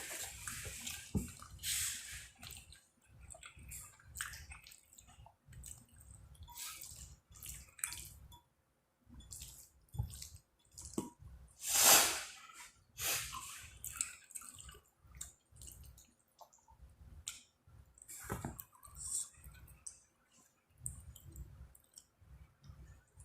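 A person eating shrimp and lobster alfredo close to the microphone: irregular wet chewing, smacking and slurping, with one louder wet burst about twelve seconds in.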